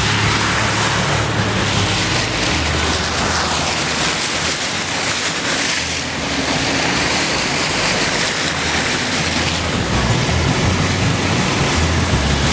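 Floodwater rushing and splashing against a car as it drives slowly through about a foot of water over a washed-out road, with the engine running low underneath.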